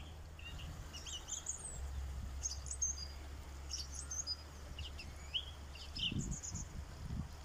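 Small birds chirping and singing in short, scattered high calls, over a steady low rumble.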